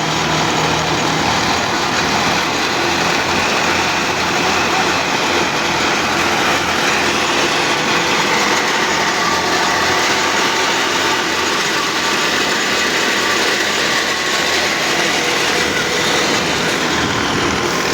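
Al-Ghazi tractor running a thresher at steady working speed: a loud, even mechanical din of engine and rattling threshing drum, with a faint steady whine above it.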